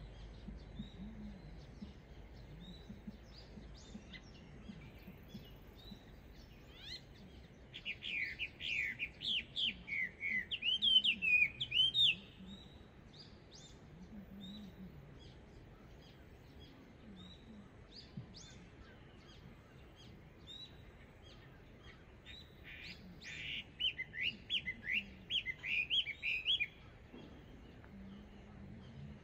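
Chinese hwamei singing in two loud runs of rapid, sweeping whistled notes, the first about eight seconds in and the second about twenty-three seconds in, each lasting around four seconds. Fainter short high chirps fill the gaps between them.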